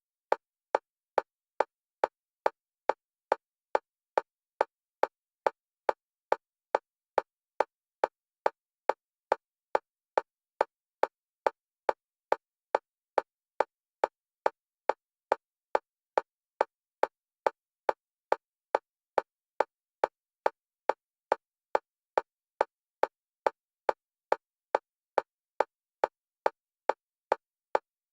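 Single-pitch metronome clicks at an even, fast rate of a little over two a second, alternating between the left and right stereo channels, as used for EMDR bilateral stimulation.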